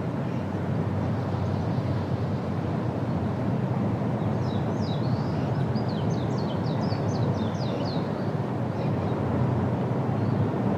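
A steady low rumbling noise throughout. From about four seconds in, a bird sings a quick series of short, high, falling notes for about three and a half seconds.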